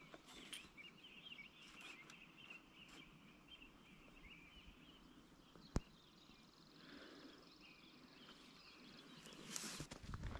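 Faint birdsong: quick chirps and twitters, then a high, dry trill lasting a few seconds, with one sharp click about halfway through and a burst of rustling noise near the end.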